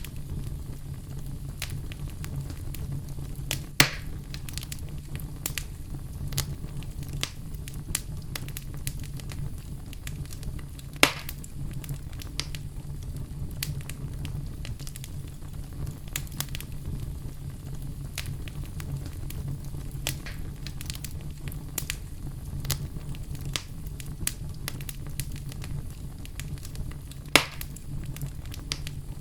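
Wood fire crackling in a fireplace: frequent small crackles over a steady low rumble, with three sharp, louder pops, about four, eleven and twenty-seven seconds in.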